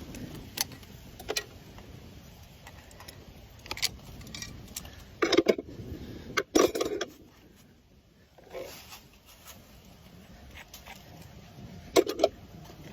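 Farrier's tools working on a horse's hoof: a series of short, sharp clicks and scrapes at irregular intervals, loudest in a cluster about halfway through and again near the end.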